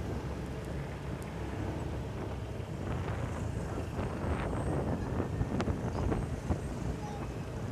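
Motorcycle riding along a road: steady engine and road rumble with wind buffeting the microphone, and a few short ticks in the middle.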